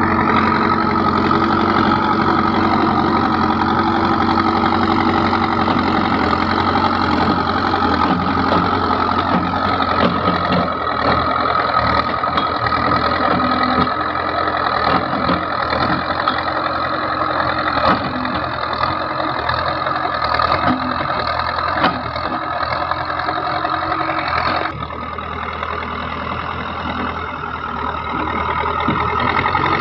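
Heavy diesel engine of a backhoe loader or farm tractor running steadily, its pitch wavering a little. About 25 seconds in, the level drops suddenly and slightly.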